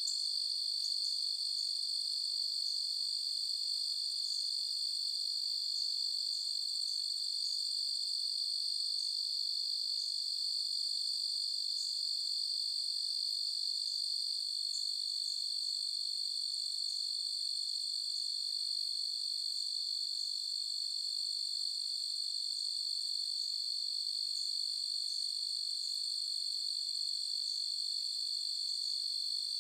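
Crickets trilling steadily at a high pitch without a break.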